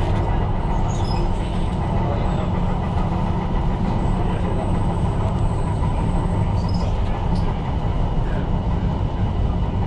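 Tyne & Wear Metro train running along the line, heard from inside the car: a steady rumble of wheels and motors, with a few faint light clicks.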